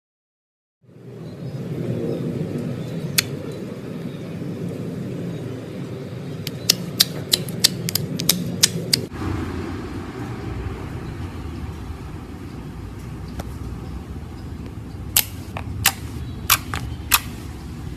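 Slime being worked in the hands, a low squelching rumble broken by sharp popping clicks: a quick run of about eight pops in the middle and four more near the end.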